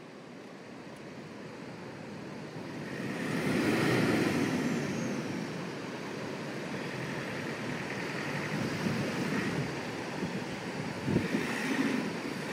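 Four-wheel-drive ute's engine running under load as it tries to tow a bogged caravan through soft sand. It swells about three seconds in and then eases back, with surf and wind behind it.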